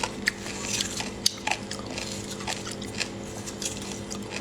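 Person biting and chewing spicy seafood close to the microphone: irregular sharp, crunchy clicks and wet mouth sounds, several each second.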